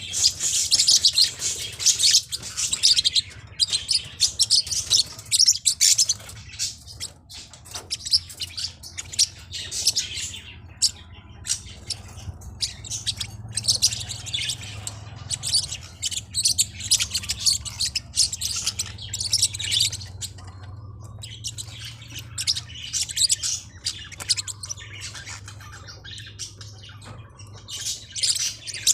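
Forpus parrotlet chirping in runs of rapid, high-pitched chirps with short pauses between them, over a faint low steady hum.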